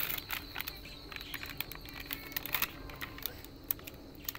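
Light, irregular clicking and crinkling as churumuri ingredients (chopped vegetables) are handled and mixed by hand.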